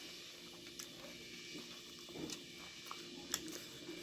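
Close-up eating sounds of rice and fish curry eaten by hand: soft chewing with a few sharp clicks and smacks of lips and fingers, over a faint steady hum.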